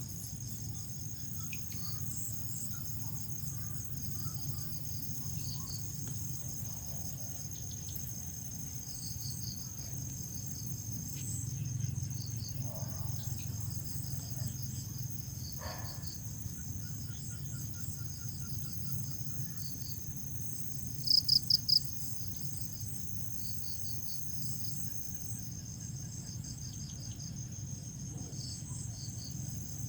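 Crickets chirping: a continuous high trill with many pulsed chirps layered over it, and a louder, closer chirp of four quick pulses about two-thirds of the way through. A low steady rumble sits underneath.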